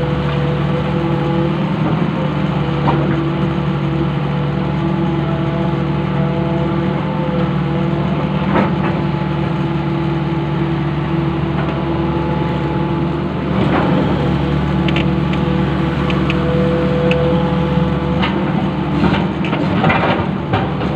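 Long-arm excavator's engine running steadily, with a few sharp knocks, several of them near the end.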